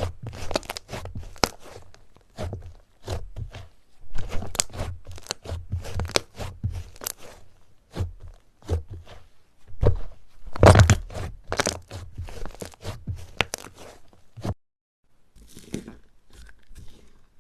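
Slime being squeezed and pressed by hand, giving a dense, irregular run of crunchy crackles and small pops. The sound cuts out for a moment about three-quarters of the way through, then comes back fainter.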